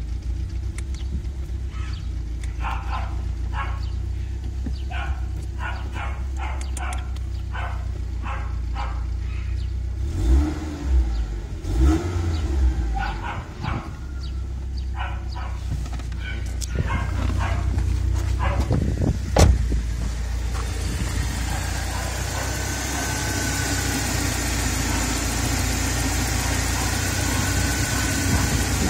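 BMW E36 318is four-cylinder engine idling steadily at about 1,000 rpm, heard at first from inside the cabin. About twenty seconds in it is heard close up in the open engine bay, where a faint high whine comes through. Short sharp sounds repeat through the first ten seconds, and a single loud knock comes about nineteen seconds in.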